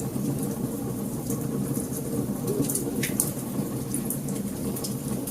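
Wood fire burning, with a steady low rumble and scattered sharp crackles and pops from the burning wood.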